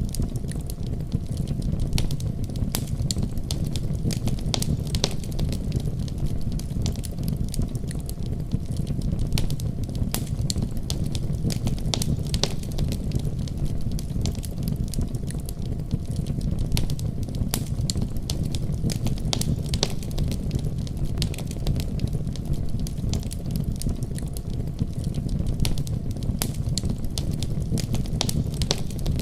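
Wood fire burning in a fireplace, crackling with many small, irregular pops over a steady low rumble.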